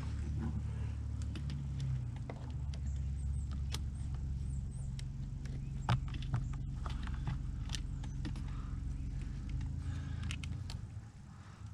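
Scattered small clicks and knocks of parts and hand tools being handled, over a steady low rumble that fades out near the end.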